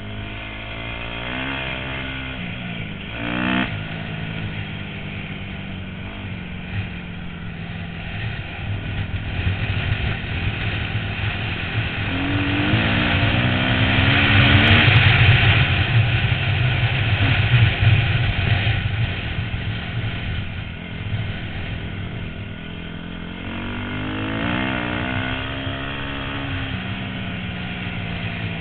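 A 250 dirt bike's engine, heard from the rider's helmet, revs up three times as it accelerates out of the corners and drops back in between. It is loudest about halfway through, on the straight, with rushing wind noise on the microphone.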